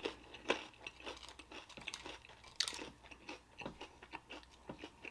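Close-miked chewing of a mouthful of food: soft, wet mouth sounds and small crunches, with one sharper crunch about two and a half seconds in.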